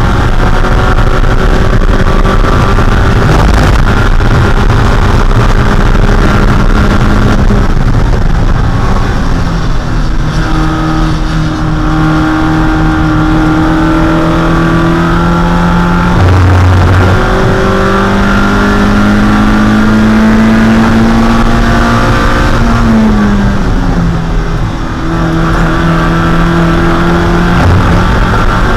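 Spec Miata's 1.6-litre four-cylinder engine running hard at racing speed, its pitch climbing slowly through long pulls, with a sharp drop in pitch a few seconds before the end, over heavy road and wind noise.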